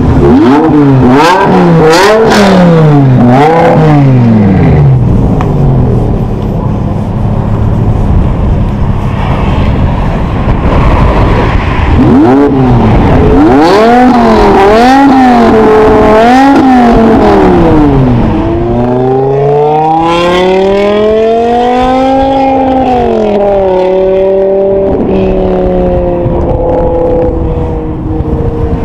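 BMW E60 M5's V10 through a Kreissieg aftermarket exhaust, revved in a string of quick throttle blips. After a steadier stretch come more blips, then one long rise in pitch that peaks and falls back to a steady note near the end.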